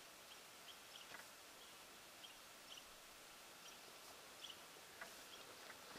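Faint, high, short chip calls from a small bird, repeated irregularly every half second to a second over a near-silent backdrop.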